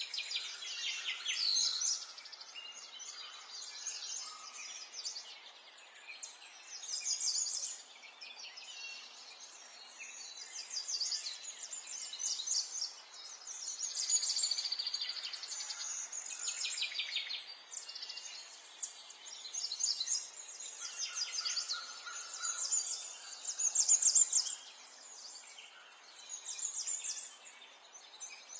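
Several songbirds singing: rapid high trills and chirping phrases, one after another and overlapping, over a faint steady hiss of outdoor background noise.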